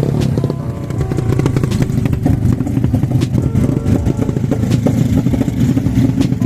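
Racing motorcycle engines running hard and revving, a loud rapid crackling drone that starts suddenly and builds in pitch after about three seconds.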